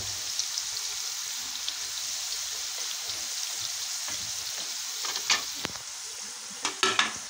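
İzmir köfte meatballs and potato wedges sizzling in hot oil in a stainless steel frying pan, a steady hiss. A few sharp knocks stand out, one about five seconds in and a quick cluster near the end.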